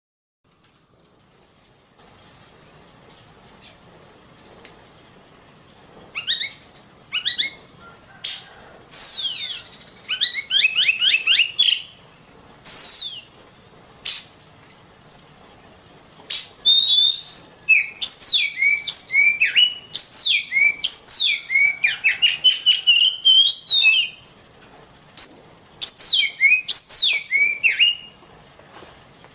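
Oriental magpie-robin (kacer) singing: quick runs of loud, sweeping, mostly falling whistles and rapid repeated notes with brief pauses, beginning a few seconds in, over a faint steady high hiss.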